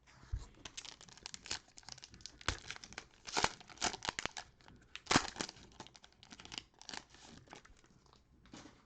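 Plastic cellophane wrapper of a basketball card cello pack being torn open and crinkled by hand: a quick run of sharp crackles and rips, with the two loudest tears about three and a half and five seconds in, then quieter rustling.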